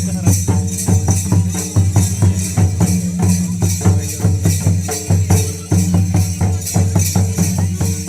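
Rhythmic music for a Ho traditional dance: a steady run of drum strokes with a jingling, tambourine-like shimmer over a sustained low bass.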